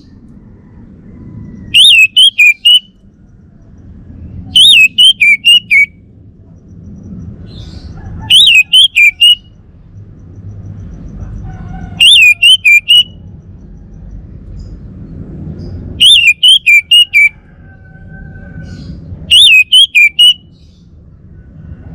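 Male orange-headed thrush singing: six short loud phrases of about five quick, sharp high notes each, one phrase every three to four seconds.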